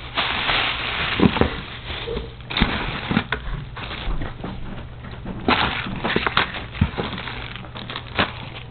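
Rustling and handling of fireworks packaging in a box, with scattered knocks and clicks as items are moved about.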